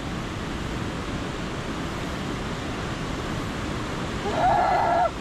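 Steady rush of a waterfall. About four seconds in, a person gives a short, loud, high-pitched cry.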